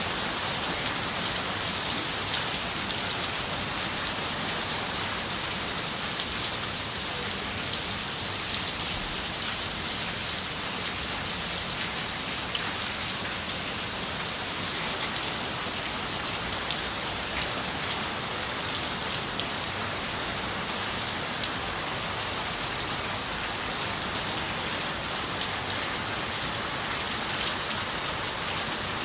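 Steady rain on a window: an even hiss of falling rain with scattered light drop ticks.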